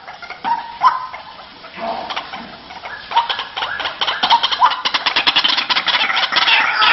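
White-breasted waterhen calls, the kind of recording played to lure the birds: a few short harsh notes, then a fast run of rapidly repeated notes that grows louder from about four seconds in.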